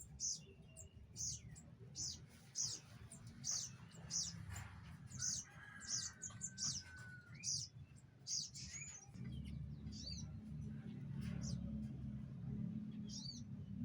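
Small birds chirping: a short high chirp repeated about three times every two seconds, then a few whistled, curving calls. A low rumble underneath grows louder about nine seconds in.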